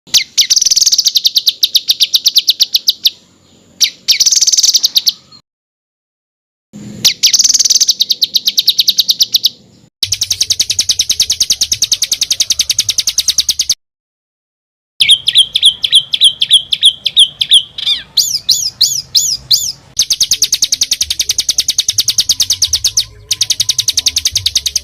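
Songbird song edited into bouts of very fast, harsh repeated notes: tight rattling trills ('roll rapat') and rapid shots ('tembakan'). The bouts stop and start abruptly with short silences between them, and near the middle a series of quick rising notes breaks in.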